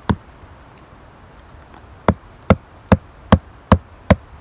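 A survival knife being driven into a knotty log with repeated wooden knocks, as when batoning to split it: one knock near the start, then a steady run of six about two and a half a second.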